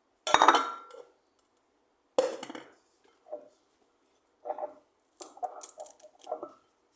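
Kitchen handling noise: two sharp knocks of dishes or utensils, then a run of shorter clatters near the end.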